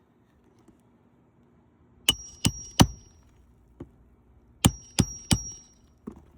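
Hammer driving roofing nails to fasten a replacement shingle: three quick blows, a pause, then three more, each blow with a short metallic ring.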